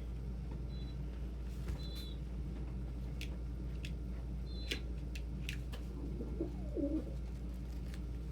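A dove cooing low and wavering about six to seven seconds in, with a few short high chirps and scattered light clicks from the flock, over the steady hum of a small fan.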